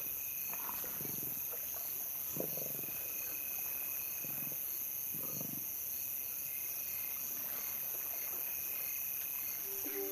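Steady chorus of night insects, with four short, low lion grunts in the first half.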